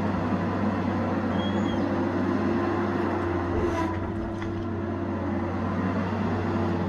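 Tigercat 870C feller buncher's diesel engine running steadily at a constant pitch, with one brief sharp crack a little over halfway through.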